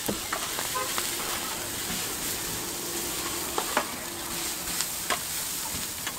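Fried rice with egg and scallions sizzling on a flat-top griddle while a metal spatula stirs and scrapes it, with a few sharp clacks of the spatula against the griddle.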